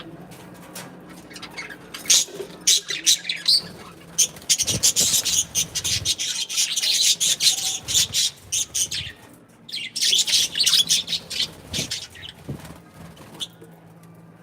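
Pet budgies and cockatiels chirping and chattering in quick strings of short, high calls, with a brief pause about two thirds of the way in, thinning out near the end. A faint steady hum runs underneath.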